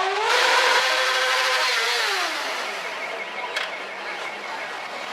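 Motorcycle engine revving: the pitch climbs, holds for a couple of seconds, then falls away as the engine comes off the throttle or moves off. There is a brief sharp click about three and a half seconds in.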